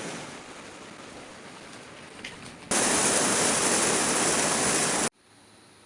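Rain falling steadily, turning into a much heavier downpour about three seconds in, which cuts off abruptly near the end, leaving only a faint hiss.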